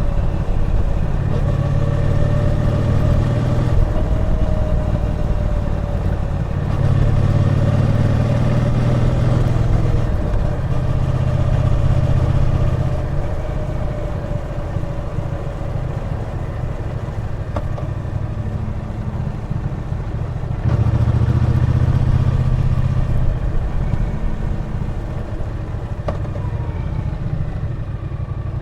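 Triumph Bonneville T120 parallel-twin engine heard from the bike on the move. It swells loud under throttle several times and eases back between.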